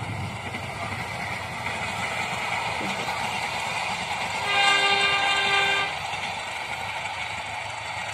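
Diesel locomotive hauling a passenger train past, with a steady rumble of engine and wheels. About halfway through it sounds one horn blast, a chord of several tones about a second and a half long: the 'semboyan 35' horn signal.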